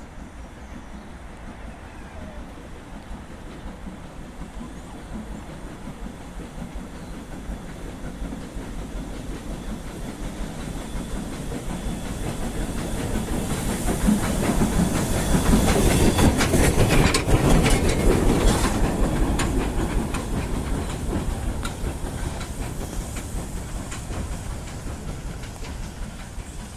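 A train passing on a heritage railway. It grows steadily louder, peaks a little past halfway with rapid clicking of wheels over the rail joints, then fades away.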